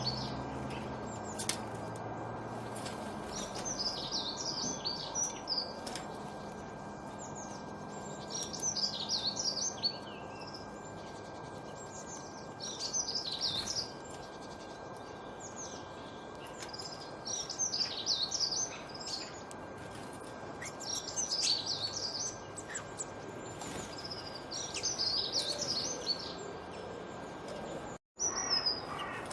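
A songbird repeating the same short, fast, high warbling phrase about every three to four seconds over a steady background hiss. Near the end the sound cuts out for an instant and a different, lower bird call begins.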